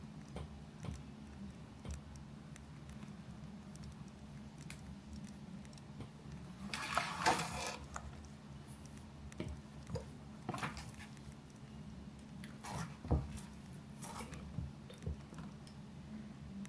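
Quiet desk study sounds: scattered pen taps and scratches on paper with small crackles, and a louder rustle about seven seconds in, over a steady low hum.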